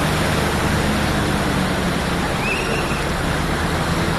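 Steady rushing noise of water over the low hum of a vehicle engine, with a brief faint high tone about two and a half seconds in.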